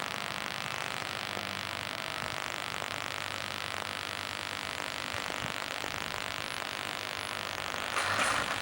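Steady hiss of outdoor noise with a low engine hum underneath, typical of a heavy diesel truck idling, and a brief louder noise near the end.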